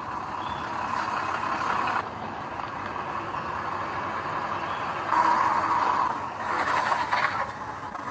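Heavy construction machinery running with a steady engine and mechanical noise. It gets louder about five seconds in, and a few short rattles or clanks follow.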